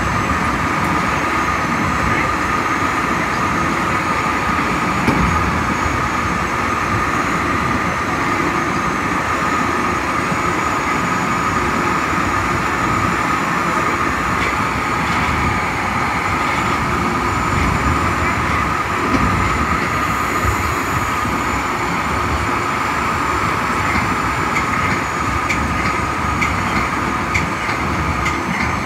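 Metra bilevel cab car running at speed: a steady rumble of wheels on rail under a constant high whine. Near the end come rapid clicks as the wheels pass over rail joints or switches.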